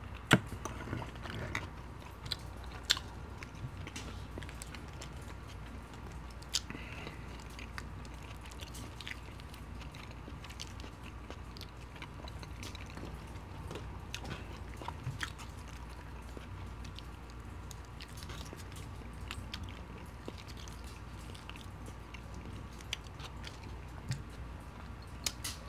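Close-up chewing and biting of poutine (gravy-soaked fries and cheese curds), with a few sharp clicks of the metal fork scattered through, the loudest just after the start.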